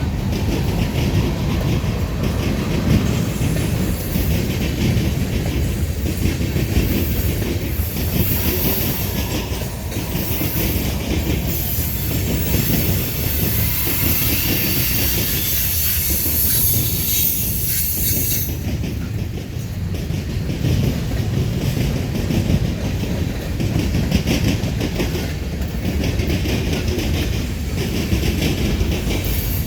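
Freight cars of a Norfolk Southern manifest train rolling past at steady speed: a continuous rumble with the wheels clacking over the rail joints. A high-pitched hiss rides above it and stops abruptly about two-thirds of the way through.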